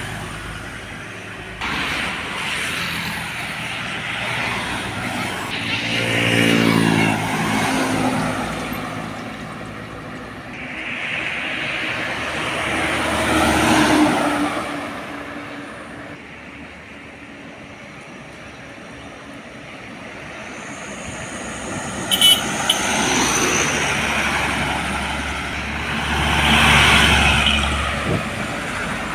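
Trucks and other traffic passing one after another on a highway, engine drone and tyre noise swelling and fading about four times, one pass with a strong engine note early on. A couple of short sharp sounds come about two-thirds of the way through.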